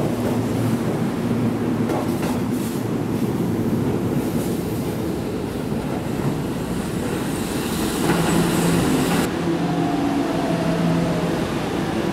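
Keihan electric commuter trains running in a station: the steady rumble of a train moving along the platform, then from about eight seconds in a low steady hum joined by motor whines that shift in pitch as a train approaches. The sound changes abruptly about nine seconds in.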